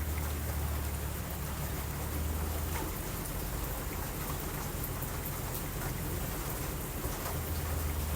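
Steady heavy rain with a low rumble of distant thunder. The rumble fades after about three seconds and swells again near the end.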